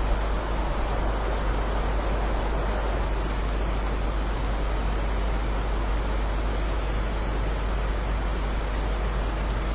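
Steady, dense rain noise: a continuous hiss with no separate drops or thunder standing out.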